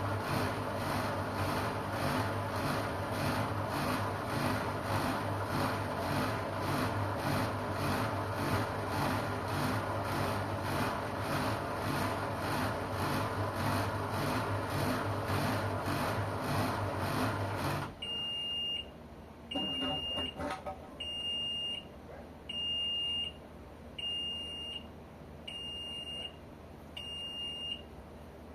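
LG washing machine running with a steady hum and an even rhythmic churn that stops abruptly about two thirds of the way through. It then sounds its end-of-cycle signal: seven high beeps of the same pitch, evenly spaced about a second and a half apart.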